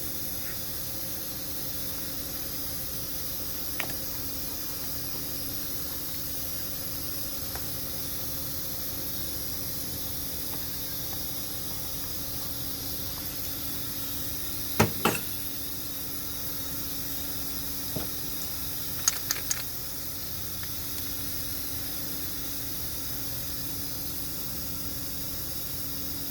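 Steady background hiss with a faint even hum, broken by a few sharp clicks and clinks of hand tools: a pair about halfway through, then a single one and a quick run of three a few seconds later.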